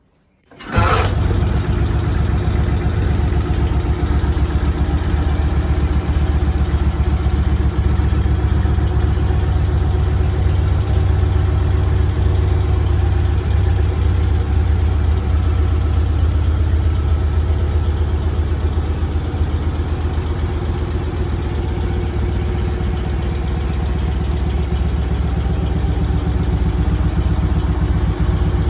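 1965 BMW R60/2's air-cooled flat-twin boxer engine catching on a cold start less than a second in, then idling steadily.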